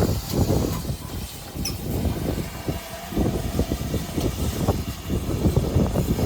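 A train running along the track: a low, uneven rumble with frequent clatter and knocks from the wheels and coaches.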